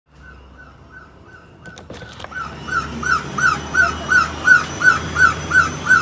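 A pet bird calling over and over: a short rising-and-falling note about three times a second. It gets much louder a couple of seconds in, after a few sharp clicks.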